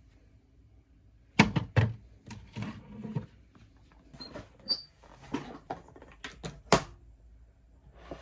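A series of sharp knocks and thuds with lighter clattering in between, and one short high beep about halfway through.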